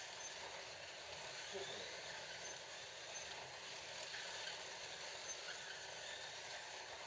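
Scalextric slot cars running round the track: a steady whir from the cars' small electric motors and their wheels on the plastic track.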